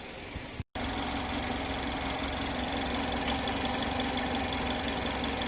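2010 Chevrolet HHR engine idling steadily at operating temperature. A short dropout comes just under a second in, after which the idle is louder and even.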